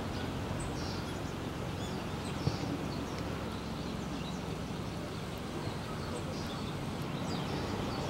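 Birds giving short, high chirps scattered throughout, over a steady low background rumble, with one brief knock about two and a half seconds in.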